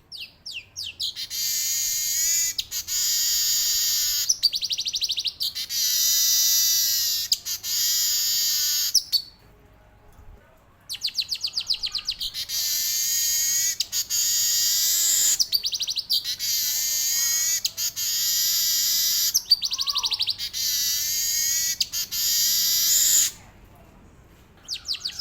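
Male weaver bird (manyar) singing its long rolling song: phrases that open with a quick run of rising notes and go into a sustained dry buzzing trill, repeated with short breaks, with two longer pauses, one near the middle and one near the end.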